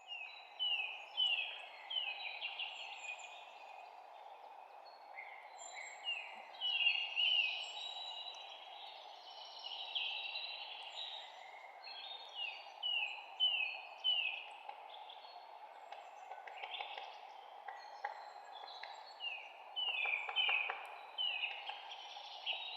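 Several songbirds chirping, with many short falling chirps that often come in quick runs of three to five. Under them is a steady background noise.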